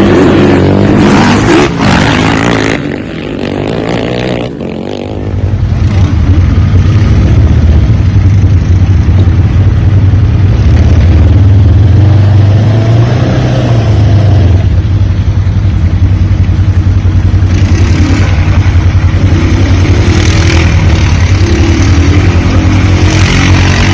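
Off-road vehicle engine running loudly, becoming a steady, pulsing drone about five seconds in.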